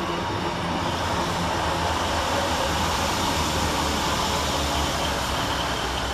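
Two-car Class 156 diesel multiple unit passing along the platform, its underfloor diesel engines humming under continuous wheel-on-rail noise. The noise swells about a second in and stays up as the carriages go by.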